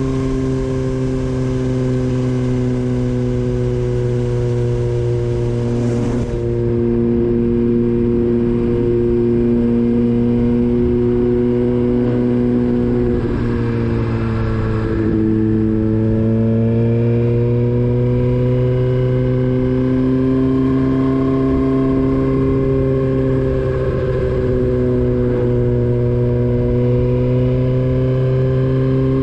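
Motorcycle engine running at a steady road speed, its pitch dipping a little about halfway through and then climbing again.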